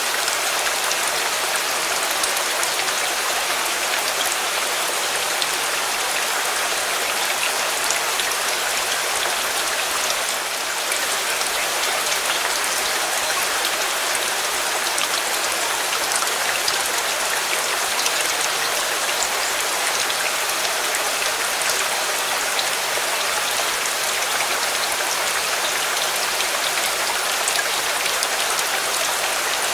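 Steady rain falling: a dense, even hiss with many scattered sharp drop ticks.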